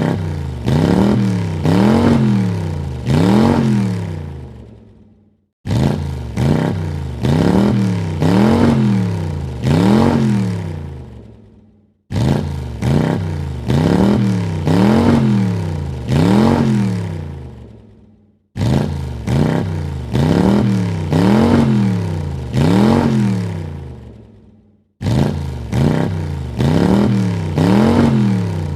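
Car engine revved in a series of quick blips, each rising and falling in pitch, then dying away. The same few-second rev clip repeats about every six and a half seconds with a brief silence between.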